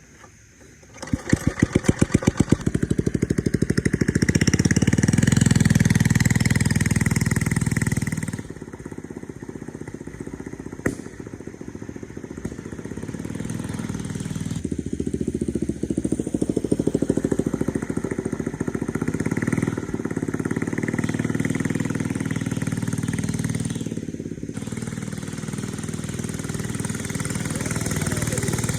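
Small single-cylinder mini bike engine running and revving up and down as it is ridden. The engine sound comes in about a second in, and its loudness rises and falls several times with the throttle.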